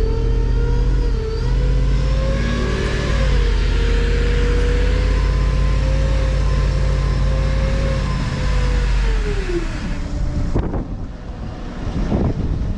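Vehicle engine running steadily with a high whine over it; about nine seconds in the whine glides down in pitch. Near ten seconds the sound changes abruptly to gusty wind noise on the microphone.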